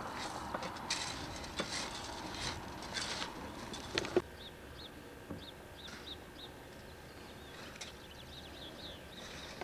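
Outdoor rustling with scattered knocks, ending in two sharp knocks about four seconds in. After that it is quieter, and a small bird chirps over and over in short high notes, a couple a second.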